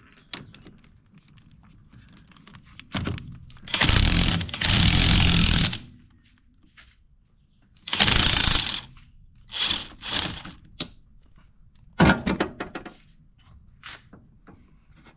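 Impact wrench run in several short bursts, the longest about two seconds, undoing a 21 mm bolt on a car's shock absorber mount.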